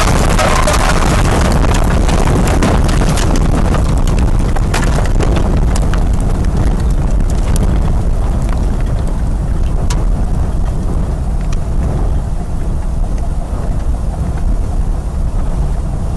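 Violent storm noise: a constant deep wind rumble under a dense rattle of sharp clicks and knocks, the clatter thinning out and the whole sound slowly fading near the end.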